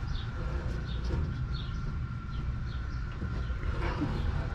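A small bird chirping over and over, short falling chirps about twice a second, over a steady low rumble.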